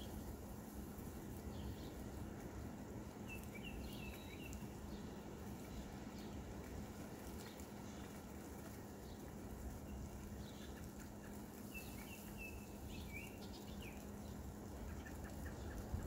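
Songbirds chirping in short bursts of quick high notes, a few seconds in and again past the middle, over a steady low background hiss.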